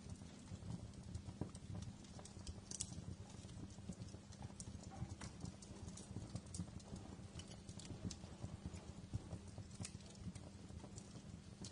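Wood fire in a fireplace crackling, with irregular sharp pops and snaps over a low, steady rush of burning.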